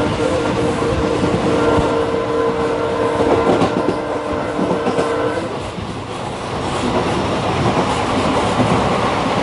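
Passenger train running at speed, heard from the coach: a continuous rumble and rattle of wheels over the track, with a long, steady, multi-tone horn blast that stops about five and a half seconds in.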